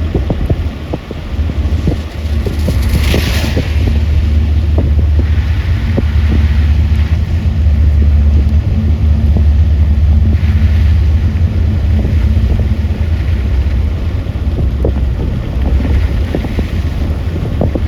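A vehicle's steady low rumble in the rain, with wind buffeting the microphone and scattered ticks like raindrops. A brief hiss swells about three seconds in.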